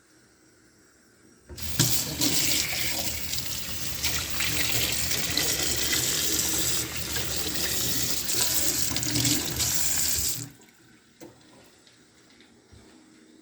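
Water running from a tap into a sink. It is turned on about a second and a half in, runs steadily for about nine seconds, and is shut off sharply.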